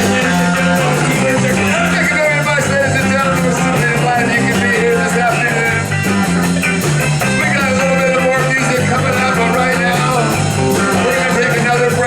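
Live rock and roll band playing an instrumental passage: a repeating bass line, guitar melody and a steady drum beat with cymbal ticks.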